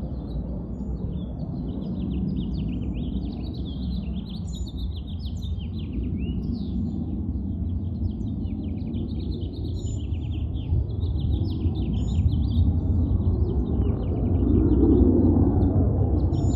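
Many small birds chirping, over a steady low rumble that grows louder near the end.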